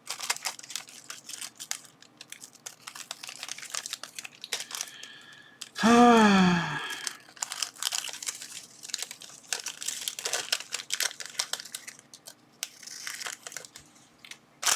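Crinkling and crackling of thin transparent plastic sticky-note film and its packaging being handled and pulled apart, with many small irregular clicks. About six seconds in comes a brief pitched vocal hum lasting under a second, the loudest sound.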